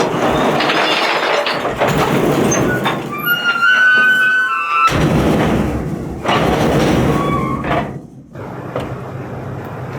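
Garbage truck at work: loud mechanical clatter and rumble with high squeals and clunks, dropping off sharply about eight seconds in.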